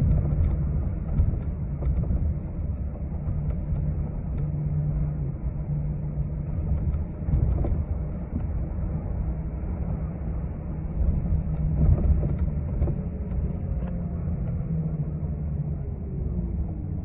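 City bus heard from inside the cabin while under way: a steady engine and road drone. Over the last few seconds a whine falls steadily in pitch as the bus slows.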